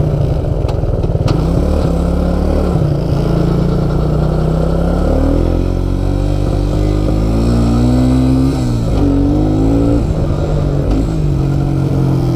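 Suzuki QuadRunner 250 4x4 ATV engine running, then revving up from about five seconds in, its pitch rising in steps, dipping sharply near nine seconds and dropping back to a lower steady speed.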